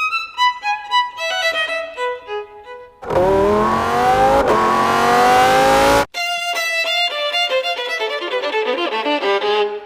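Solo violin playing short phrases, then a Lamborghini Huracán EVO Spyder's V10 engine revving with a steadily rising pitch for about three seconds before it cuts off abruptly, and the violin comes back with a run of quick notes.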